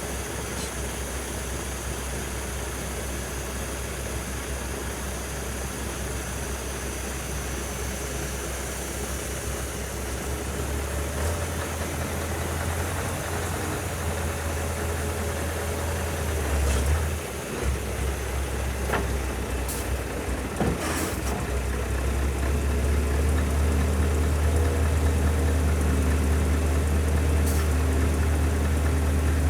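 Scania 143H 470 truck's 14-litre V8 diesel running at idle. Its note gets louder about a third of the way in and again in the last third, with a brief dip in the middle and a few sharp clicks.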